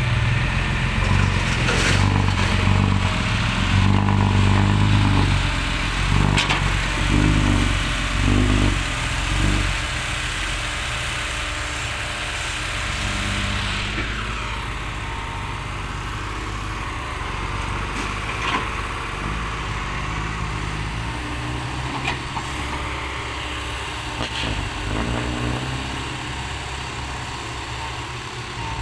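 Six-wheel dump truck's diesel engine running loud under load as it pulls away. About ten seconds in it drops to a quieter, steady engine sound.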